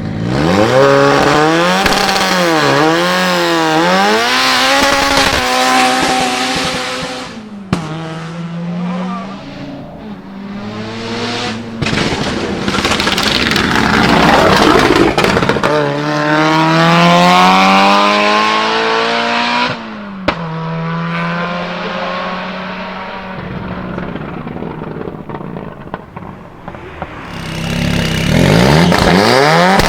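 Turbocharged Ford Sierra RS Cosworth's four-cylinder engine accelerating and revving hard several times, its pitch climbing and dropping back between runs. A few sharp anti-lag bangs from the exhaust crack out, about 8 and 20 seconds in.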